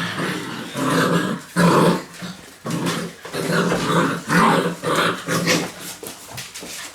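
Six-week-old Labrador puppies growling in rough play, in short repeated bursts, which the breeder takes for puppies probably vying for pack dominance.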